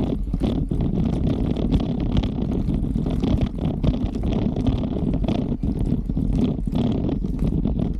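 Mountain bike being ridden over rough ground. There is a steady low rumble of tyres and wind on the microphone, with frequent irregular clicks and rattles from the bike.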